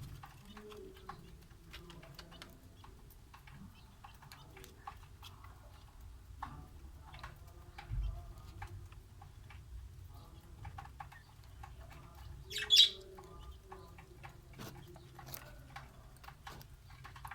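King quail in a cage making soft chirps, with scattered light clicks and taps. One louder, short high call comes just before 13 seconds in, over a low steady hum.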